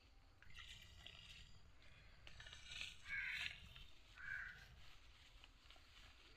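Persian cat meowing faintly while being bathed: a few short meows, the loudest about three seconds in.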